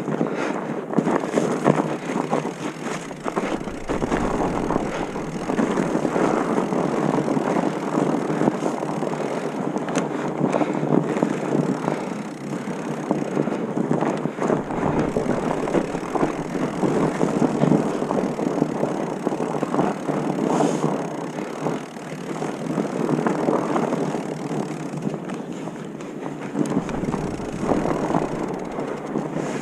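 Continuous rolling and rattling noise of riding over a rough trail, with many small knocks and clatters and gusts of wind on the microphone now and then.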